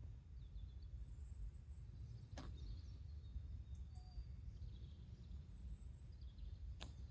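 Faint garden ambience: small birds chirping high and thin over a steady low rumble, with two sharp clicks, one a couple of seconds in and one near the end.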